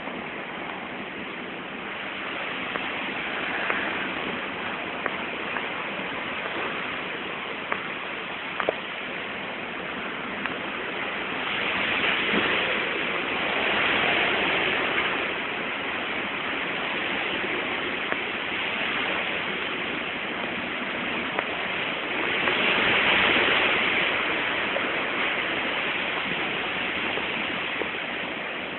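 Heavy rain pouring down in a steady rush, swelling louder twice, with a few sharp ticks.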